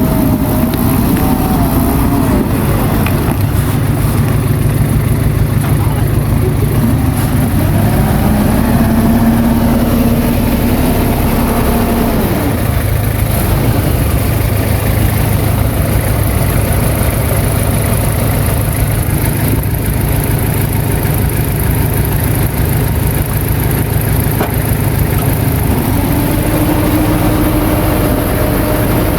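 Diesel engine of heavy earthmoving machinery running steadily and loud, its pitch rising about a third of the way in, holding, then dropping, and rising again near the end as the engine is worked harder and eased off.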